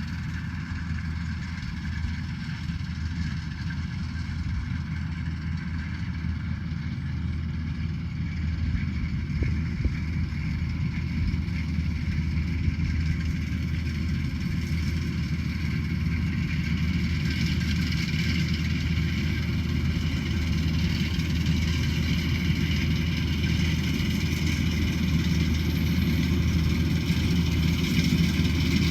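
Combine harvester running steadily: a low engine drone with higher mechanical whine above it. The sound grows gradually louder through the second half.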